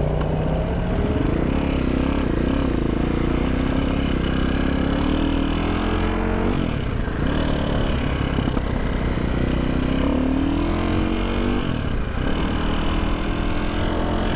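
Single-cylinder four-stroke engine of a KTM 450 SX-F dirt bike under way, its pitch rising and then dropping back several times as it accelerates and shifts.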